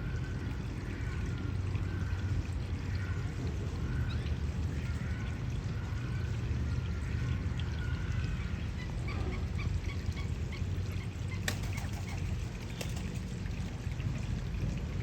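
Steady rush of pouring water, like an aviary waterfall or fountain, with a bird giving a short call over and over, about one call every 0.7 seconds, that stops about two-thirds of the way through. Some higher chirps and a couple of sharp clicks follow.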